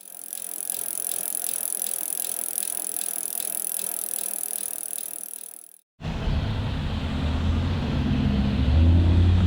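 A bicycle being ridden, with a regular light ticking over a steady hiss, for about six seconds. It cuts off abruptly and a truck's heavy engine starts running, low and steady, growing louder toward the end.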